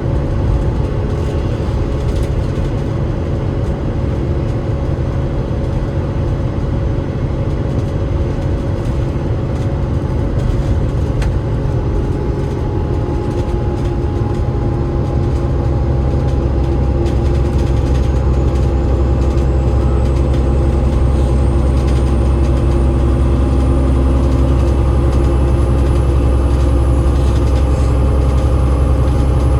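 Cummins ISL8.9 inline-six diesel and ZF EcoLife six-speed automatic gearbox of an Enviro500 MMC double-decker bus running under way. The engine note grows heavier and louder about halfway through. A faint high whine rises slowly in pitch through the second half.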